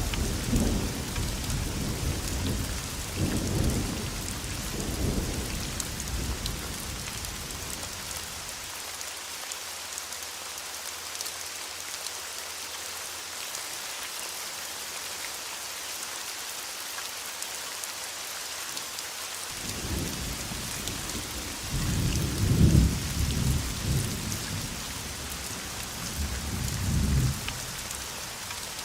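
Heavy steady rain with rolling thunder: low rumbles fade out over the first several seconds, leaving rain alone, then a second peal of thunder rumbles in about twenty seconds in, loudest around twenty-two seconds, and dies away near the end.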